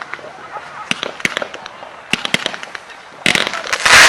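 Consumer fireworks going off: scattered sharp cracks and pops for about three seconds, then a sudden, much louder burst of dense crackling near the end.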